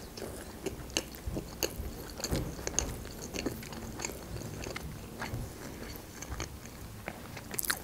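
A person chewing soft food with the mouth closed, close to the microphone: irregular small clicks and smacks of the mouth, scattered through the whole stretch.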